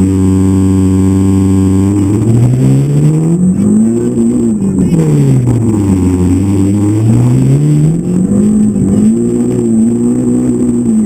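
Citroën Saxo rally car's engine heard from inside the cabin: held at steady revs on the start line, then launching and accelerating hard. The pitch climbs, falls at an upshift about four and a half seconds in, climbs again and falls at a second upshift about seven and a half seconds in.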